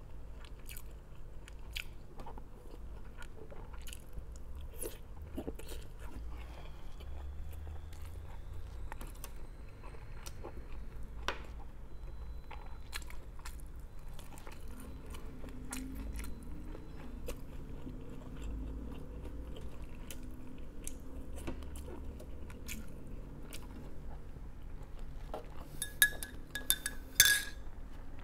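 A person chewing and crunching mouthfuls of food, lettuce leaves among it, with many small wet mouth clicks. Two sharp, ringing clinks near the end.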